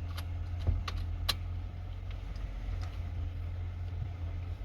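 2008 Toyota Sienna's 3.5-litre V6 idling steadily, still running after the key has been removed from the ignition. A few sharp clicks, most of them in the first half.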